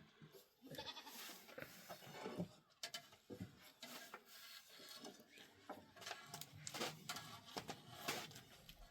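Goats bleating faintly, several short calls, with scattered clicks and knocks in between.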